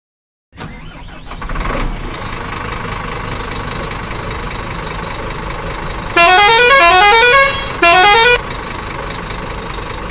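Lorry engine running steadily, with a loud multi-tone musical horn sounding twice about six seconds in: a quick run of rising notes for just over a second, then a shorter blast.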